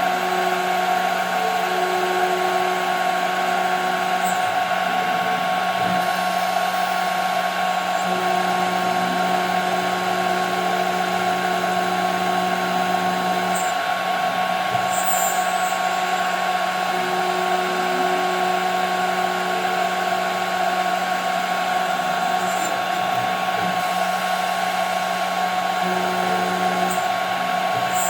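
CNC router spindle running at a steady high whine while machining 5 mm plexiglass, with a lower tone coming in and dropping out for several seconds at a time and a few faint high ticks.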